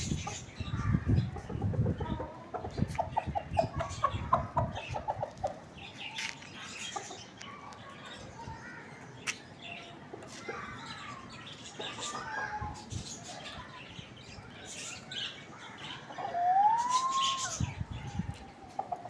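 Rooster and hen on a roof: wing flapping, a quick run of clucks a few seconds in, and one rising-then-falling call near the end.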